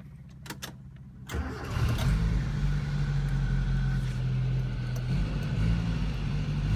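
Engine of a 1989 Mitsubishi Pajero short-wheelbase 4WD heard from inside the cab, with a few clicks early. A little over a second in it gets much louder and keeps running as the vehicle drives off, its pitch changing a couple of times.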